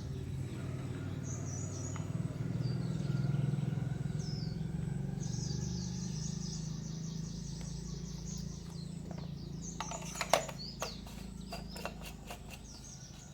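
Birds chirping over a steady low hum, with a few sharp clicks about ten seconds in.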